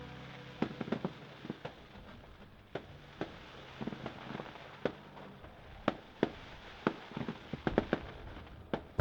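Fireworks going off: a string of sharp bangs and crackles at irregular intervals, coming thicker and louder in a quick cluster near the end.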